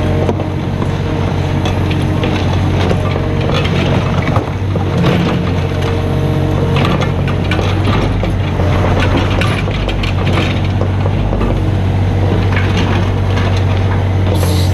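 Mini excavator's diesel engine running steadily, with irregular knocks, clanks and scraping from the bucket and machine at work.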